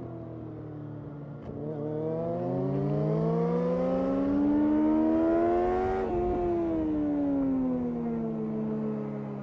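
2005 Yamaha R6's inline-four engine heard on board: the revs climb smoothly for about four and a half seconds without a shift, then fall away steadily as the throttle is closed.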